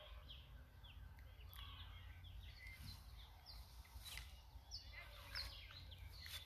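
Faint birdsong outdoors: many short, falling chirps from several birds, scattered through the whole stretch, over a steady low rumble.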